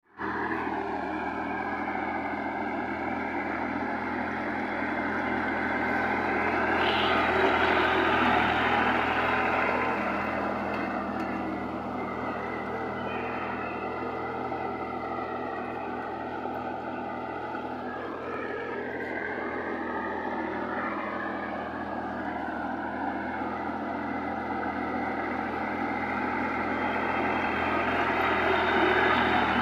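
Sonalika GT 26 mini tractor's diesel engine running hard as the tractor works in deep mud and water, swelling louder about a quarter of the way in and again near the end.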